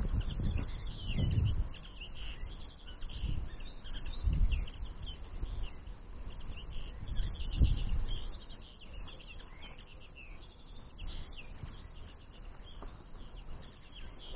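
Small songbirds chirping and twittering continuously. Low rumbles of wind on the microphone come and go through the first half.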